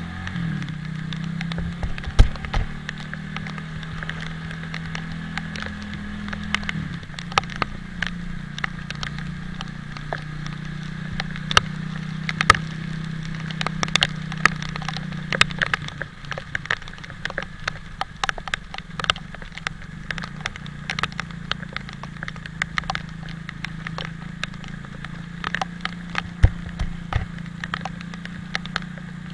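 Italika 250Z motorcycle engine running steadily while riding in the rain, its note shifting a couple of times. Raindrops hit the microphone as many sharp, irregular ticks and crackles.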